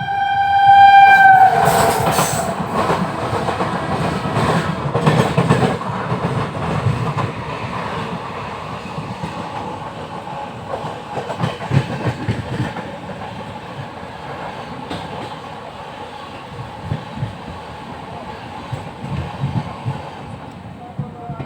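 Train horn sounding and cutting off with a slight drop in pitch about a second and a half in, then the loud rumble and clickety-clack of train wheels on the rails, slowly fading.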